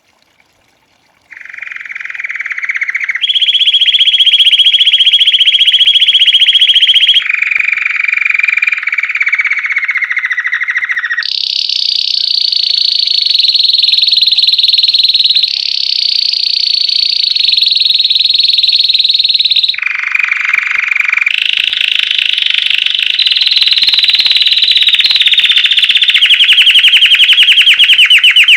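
Belgian canary singing a long song of rapid trills, starting about a second in. The song moves through successive phrases, each held for a few seconds at a different pitch, some higher and some lower.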